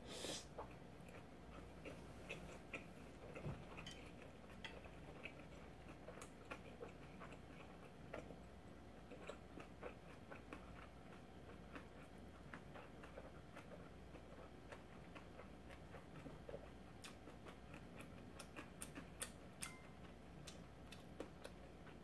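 Faint, irregular small clicks of a mouth chewing a bite of tuna kimbap dipped in ramen broth, with a louder noise as the bite goes in at the start.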